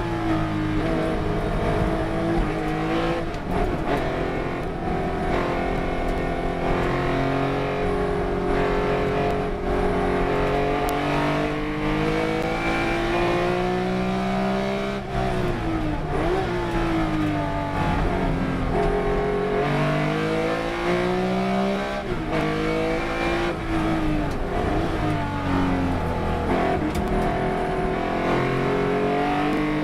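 Race car engine at full throttle, its pitch climbing through each gear and dropping sharply on downshifts or lifts about halfway through and twice more near the end.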